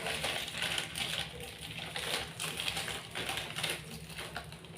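A metal spoon clicking and scraping against a bowl in a quick, irregular patter while gram flour is spooned in for pakora batter.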